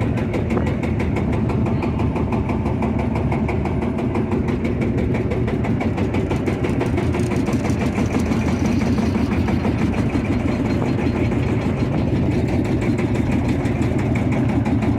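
A tractor engine running steadily at an even speed, with a fast, regular firing pulse.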